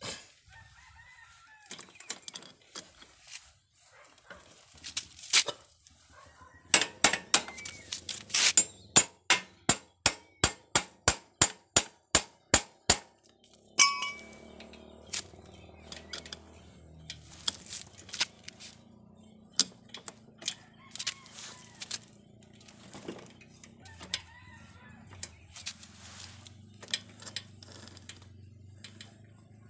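Tools clinking and knocking on a motorcycle being repaired after its chain came off its line, including a run of about fifteen sharp metal strikes, about two and a half a second. About halfway through, a low steady hum starts under further clicks.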